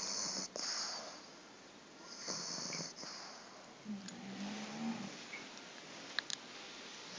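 Sleeping flat-faced dog snoring: raspy, hissing breaths, then a buzzing snore about four seconds in, with a couple of faint clicks near the end.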